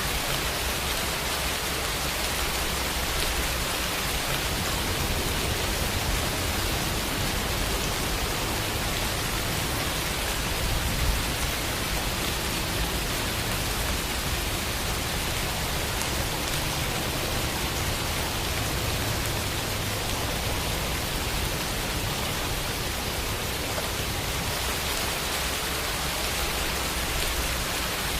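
Steady, even rain falling and pattering on surfaces, with no other sounds.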